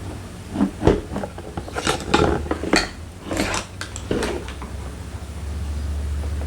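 Clicks, knocks and light metallic clinks of hand tools and door parts being worked, in several short clusters, over a steady low hum that grows louder near the end.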